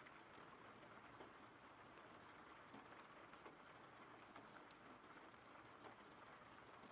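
Faint, steady rain: an even hiss with a scattered patter of drops.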